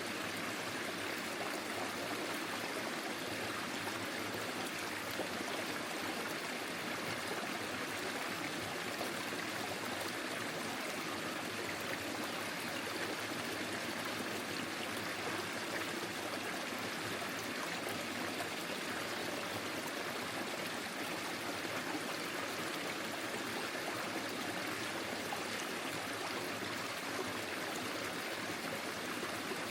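Forest stream flowing steadily, an even rush of water over its bed.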